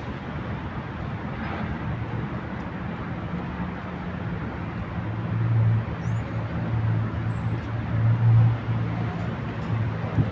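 City street traffic ambience: a steady wash of traffic noise with a low engine hum that grows louder about halfway through, as a vehicle runs close by.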